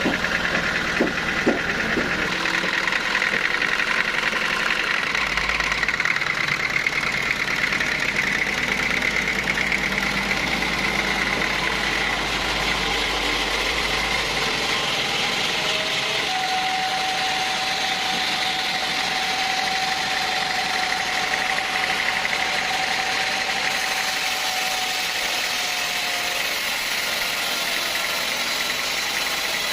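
Sawmill machinery running steadily, with a higher tone coming in for several seconds past the middle.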